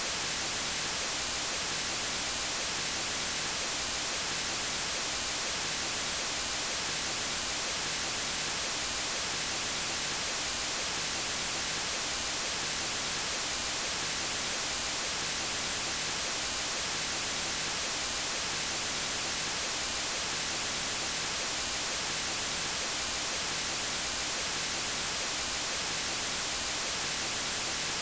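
Steady synthetic white noise: an even hiss with no changes or events.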